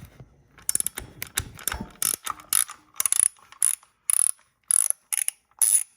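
Hand ratchet wrench clicking as it loosens a bolt on the motorcycle's engine: scattered clicks at first, then about eight quick ratcheting strokes, roughly two a second.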